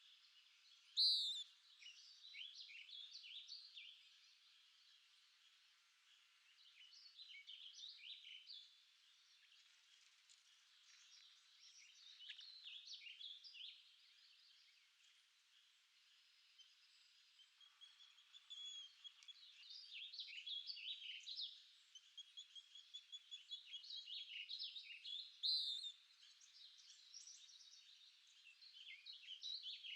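Songbirds singing: phrases of quick chirps and trills lasting one to three seconds, repeated every few seconds with short pauses. A sharp, high, downward-sweeping call rings out about a second in and again near the end.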